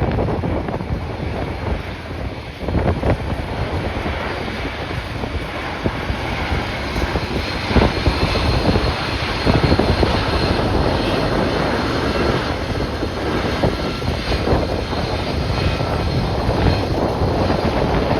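Jet airliner engines running, a steady whine with faint high tones, under heavy gusting wind buffeting the microphone.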